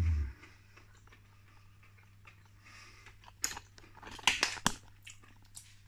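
A person chewing a mouthful of breaded smoked haddock fish cake: the crunchy breadcrumb coating crackles in a cluster of crunches between about three and a half and five seconds in. It opens with a short low hum of the voice that falls in pitch.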